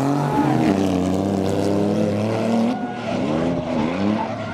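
Two drift cars' engines running at high revs during a tandem drift, the pitch swinging up and down as the throttle is worked, with quick dips and rises in the second half.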